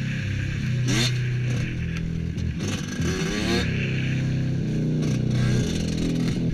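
Motocross bike engine running and being revved, its pitch rising and falling several times as the throttle opens and closes.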